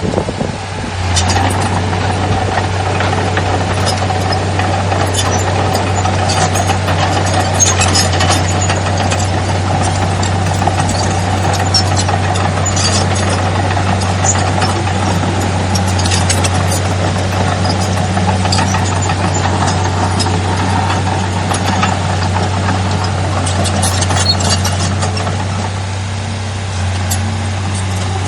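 Heavy diesel engine of earthmoving machinery running steadily, its note firming up about a second in, with scattered sharp clanks.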